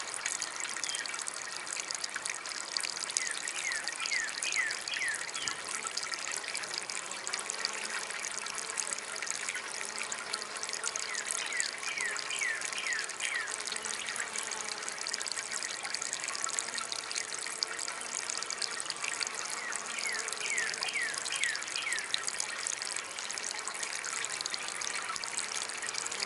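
Small DIY water fountain trickling and splashing steadily. Three times, about eight seconds apart, a quick run of short falling chirps sounds over the water.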